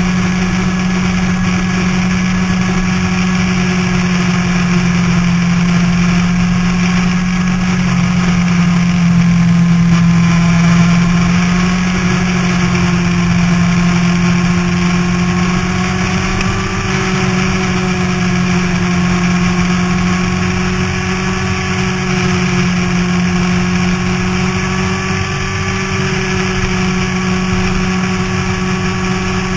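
Motorcycle engine running steadily under way, its pitch drifting gently up and down, over a steady rushing noise.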